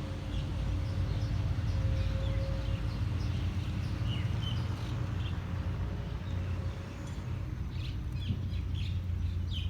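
Birds chirping over a steady low rumble with a faint hum; the chirps come more often in the last couple of seconds.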